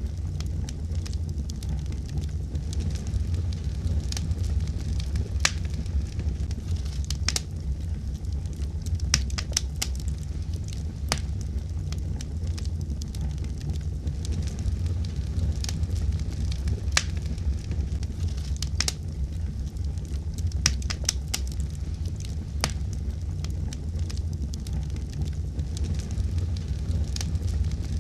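Fire burning in a fireplace, crackling, with sharp pops at irregular moments over a steady low rumble.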